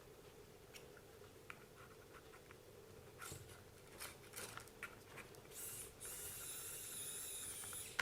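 Small clicks and taps of a screw and small plastic and metal parts being handled, then about two and a half seconds of steady whirring rasp near the end as a screw is driven into the RC car's suspension.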